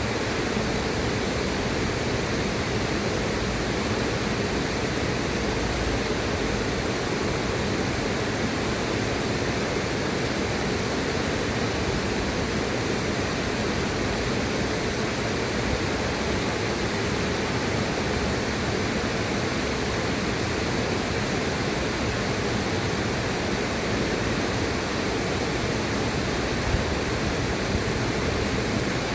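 River water rushing steadily, an even, unchanging wash of noise.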